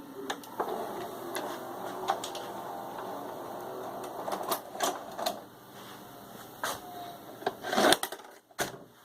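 Mechanical clicking and knocking over a faint whir: irregular sharp clicks, a short steady tone in the second half, and a cluster of louder knocks near the end.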